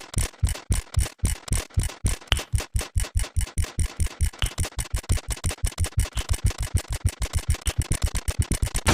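Counter tick sound effect: a rapid, even train of short electronic click-thumps, one per number step, speeding up steadily from about four to about eight a second.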